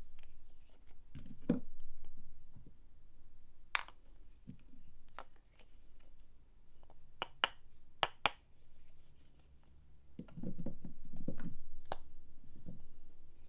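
Hands unpacking soap: soft handling and rustling of the packaging with a scattering of sharp clicks and taps, two quick pairs of clicks near the middle and a longer stretch of handling noise near the end.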